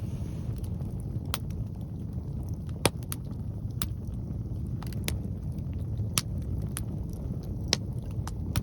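Log fire crackling, with sharp, scattered pops, over a steady low rumble of wind on the microphone.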